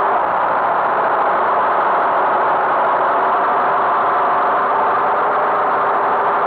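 Tractor engine running steadily, an even engine drone with a constant pitch throughout.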